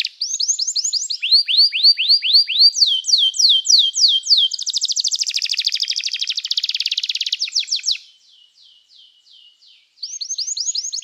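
Domestic canary singing: runs of quick, repeated falling whistled notes, each run at a new pitch, and a fast rattling trill in the middle. About eight seconds in the song drops to faint notes for two seconds, then resumes loudly.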